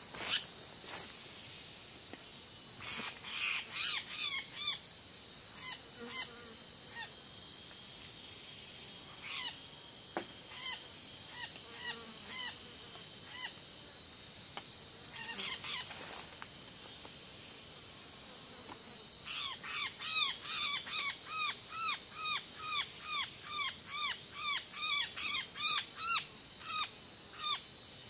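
A bird calling in a fast regular series of short harsh chirps, about two a second, over a steady high drone of forest insects. Scattered single chirps and clicks come earlier.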